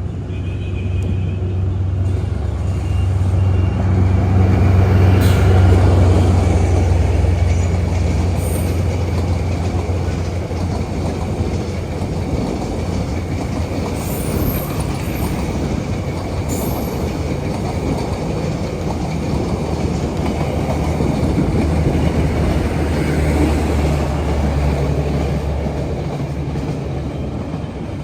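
A Vietnamese diesel-hauled train passing at close range: a steady low locomotive engine drone, loudest about five seconds in, over the rumble of the rolling cars, with a few short sharp metallic squeaks or clicks from the wheels.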